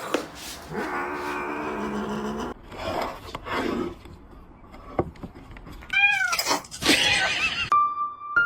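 Domestic cat meowing: a long drawn-out call over the first couple of seconds, then a short higher meow about six seconds in and further calls after it. A steady tone starts near the end.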